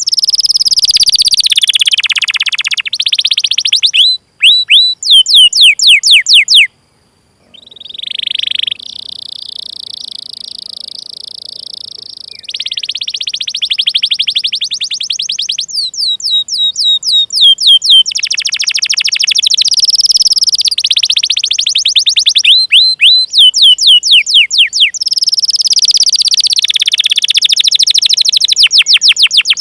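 Domestic canary singing: series of sharp, falling 'cuit cuit' chirps alternating with fast rolling trills, with a long held high whistle near the middle. The song breaks off briefly about seven seconds in.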